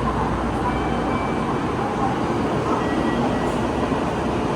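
A Shinkansen train moving at the station platform: a steady rumble with a faint high tone now and then.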